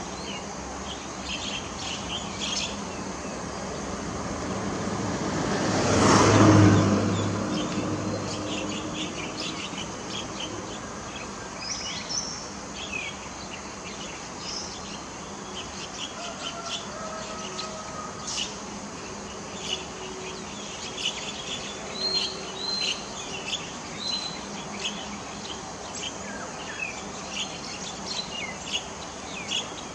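Small birds chirping and twittering on and off throughout. About six seconds in, a passing vehicle swells up loudly and fades away over a few seconds.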